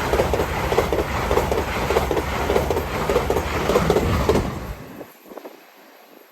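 A King's Cross to Edinburgh express passenger train passing at speed, its wheels clattering over the rail joints in a fast, even rhythm. The sound stops abruptly about four and a half seconds in as the last coach goes by, leaving only faint background noise.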